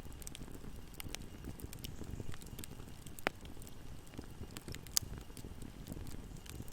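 Wood fire burning in a fireplace: a steady low rumble of flames with scattered crackles and pops, two sharper pops standing out past the middle.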